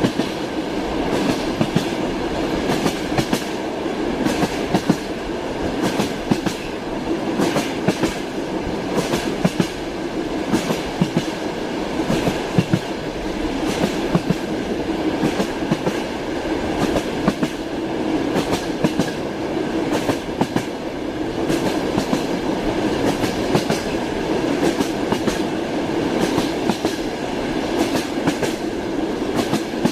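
Train wheels knocking over the rail joints in a steady clickety-clack: repeated sharp clicks over the continuous rumble of a moving train carriage.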